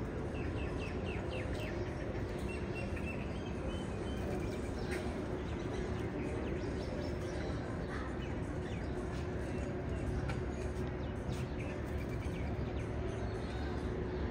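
Small birds chirping in quick series, mostly in the first few seconds, over a steady low hum and rumble of background noise.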